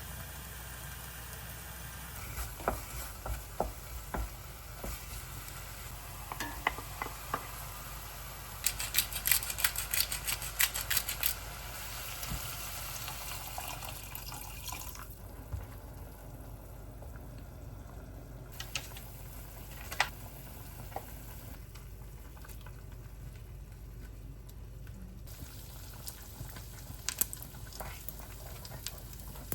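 Cooking in a pan or pot: a utensil stirring and knocking against it over a steady low hum, with a quick run of clicks and scrapes about nine to eleven seconds in.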